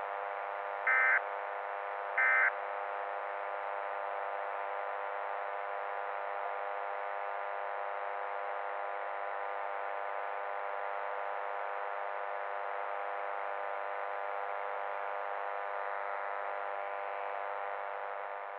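Emergency Alert System end-of-message code: short data-burst squawks a little over a second apart, over a steady electronic buzz. The buzz holds level and fades out near the end.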